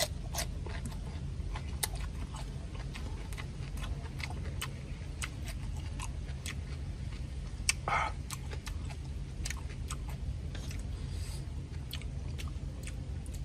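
Close-miked chewing and crunching of fresh cucumber and crispy fried crocodile head meat: many small, sharp crunches, with one louder bite or mouth sound about eight seconds in, over a steady low rumble.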